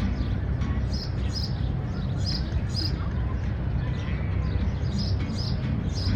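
City-park ambience: a steady low rumble of distant city traffic, with small birds chirping high and short, the chirps coming in quick pairs several times.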